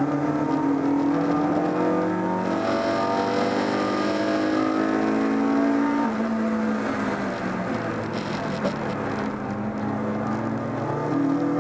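BMW 318is (E30) race car's four-cylinder engine, heard from inside the stripped cabin, pulling hard with its note climbing slowly. About six seconds in the revs fall away, and they rise again near the end.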